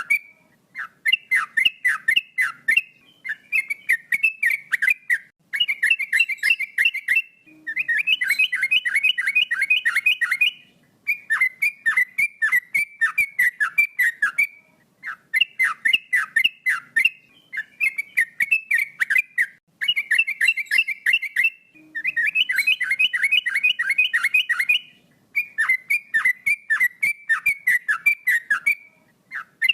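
Male yellow-vented bulbul (trucuk) in full song: phrase after phrase of rapid, falling whistled notes, about five or six a second. Each phrase lasts two to three seconds, with short pauses between.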